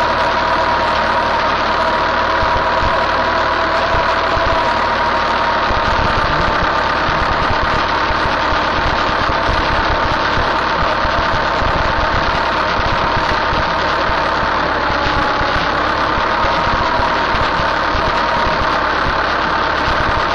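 Tractor engine running steadily while working, with a constant whine on top of the engine noise.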